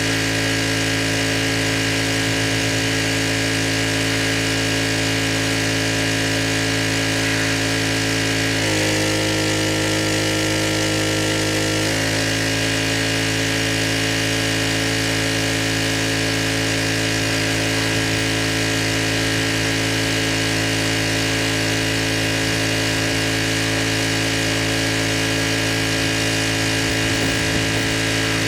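Pressure washer's engine running steadily. Its pitch drops for about three seconds, about nine seconds in, then returns.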